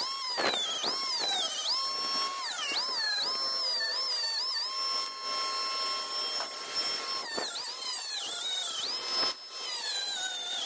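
Power grinder whining at high speed on a metal gas tank, grinding out pits and flaking paint. Its pitch sags each time it bears down on the metal and rises again when eased off, several times, with a short lull just after nine seconds.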